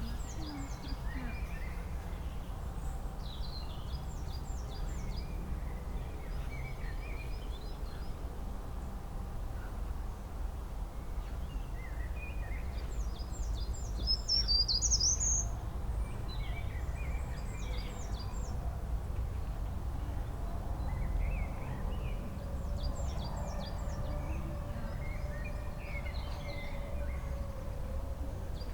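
Several songbirds chirping and singing in short, repeated phrases that come and go, loudest about halfway through. They sound over a steady low rumble.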